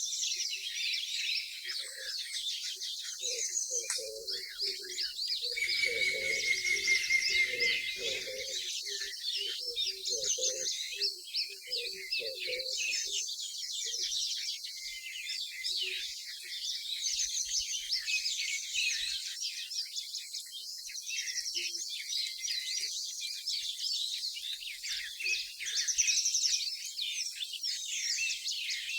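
Many small birds chirping and twittering in quick, overlapping calls, with faint distant human voices through the first half.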